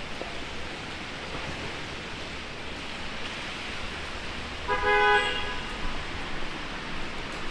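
A vehicle horn honks once, briefly, about five seconds in, over a steady hiss of heavy rain and street traffic.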